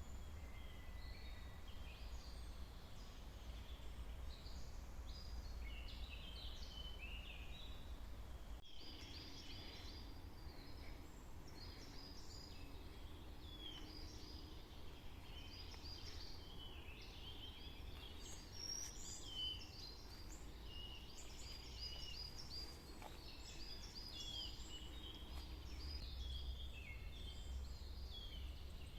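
Several small songbirds singing and calling in woodland: short high chirps, notes and trills from different birds overlapping throughout, over a low steady rumble of wind or handling noise. A single sharp click sounds about nine seconds in.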